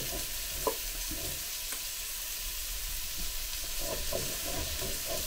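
Diced peppers, tomatoes, onions and bacon sizzling steadily as they fry in the pot of a Ninja Speedi multi-cooker, stirred with silicone-tipped tongs. A sharp tap of the tongs on the pot a little under a second in, and a few soft knocks later.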